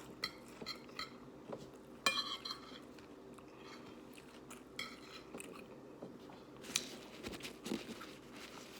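Spoon clinking and scraping against a dish while scooping food, in scattered light clicks with one ringing clink about two seconds in, over a faint steady hum.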